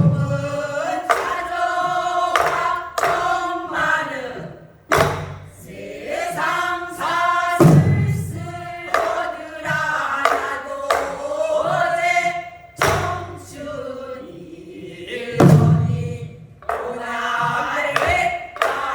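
A group of singers performing Korean traditional song in buk byeongchang style, voices in unison with long, wavering held notes, while they beat buk barrel drums. Heavy drum strokes fall every few seconds, about five in all.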